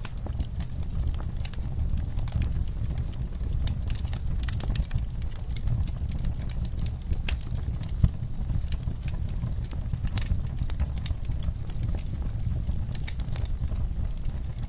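Wood fire in a fireplace crackling, with irregular sharp pops and snaps over a steady low rumble; one louder pop about eight seconds in.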